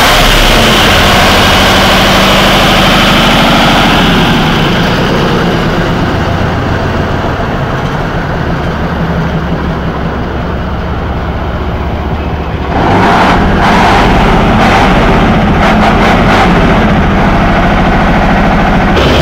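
Tatra engines running loudly with a deep rumble. About four seconds in, the sound turns softer and duller, and about 13 seconds in it jumps abruptly louder again with a harsher, irregular clatter.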